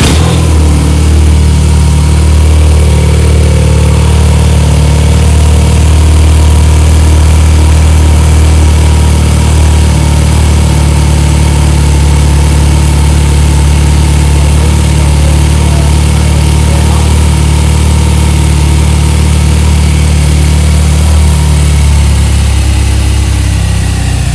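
BMW R nineT's boxer twin engine idling steadily just after start-up, heard through the stock mufflers with their silencer inserts still fitted.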